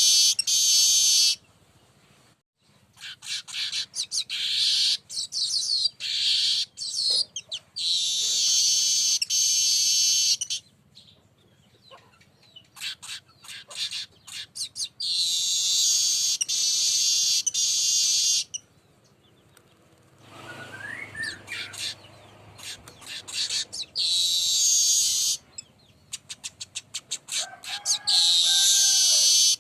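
Manyar weaver birds singing: long, high, buzzing bouts of a few seconds each, repeated over and over, broken by runs of rapid chattering ticks, with a few lower whistled notes near the end.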